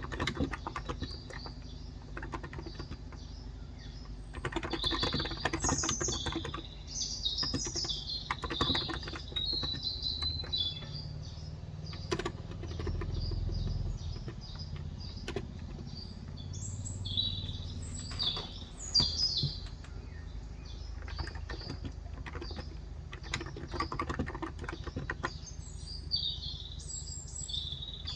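Keys clacking in irregular bursts on a Cox Endeavor electrostatic-capacitive keyboard with 35 g switches, while small birds chirp in short, high clusters several times.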